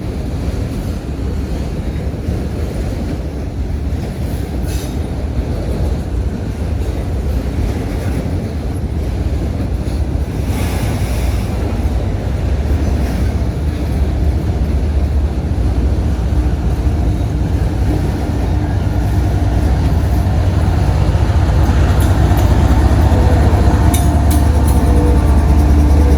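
Long Norfolk Southern freight train rolling past, its cars' wheels making a steady low rumble that grows gradually louder, with steady tones rising out of it over the last several seconds.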